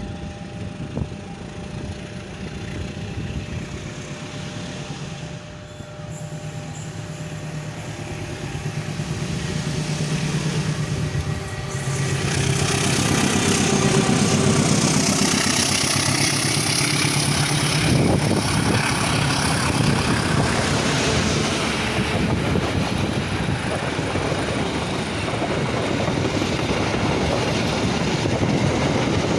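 Passenger train passing close by: its rolling noise builds and grows loud about twelve seconds in, then runs on steadily with the wheels clattering over the rails.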